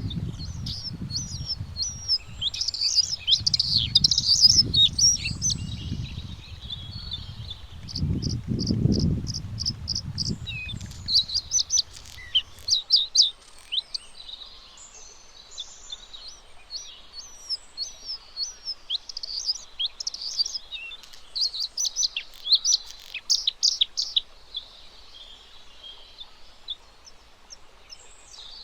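Bluethroat singing: a long, varied run of high chirps, trills and whistled notes, with a quick series of evenly repeated notes about eight seconds in. A low rumble lies under the song for the first half and stops suddenly about halfway through.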